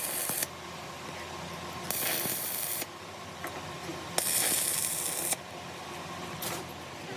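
Workshop sounds during metal repair work: three short bursts of hissing, the last and longest about a second, among light metallic clicks and clinks over a low steady hum.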